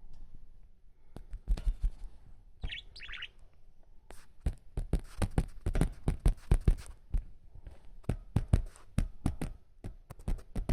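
Budgerigar giving a short burst of chirps about three seconds in, among many sharp taps and clicks.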